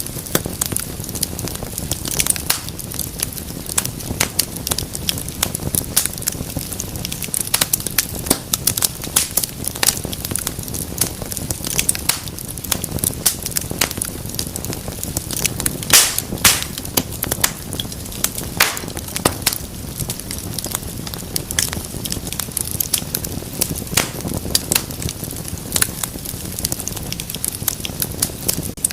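Wood fire burning in a fireplace, crackling and popping steadily over a low rumble of the flames, with a couple of louder pops about halfway through.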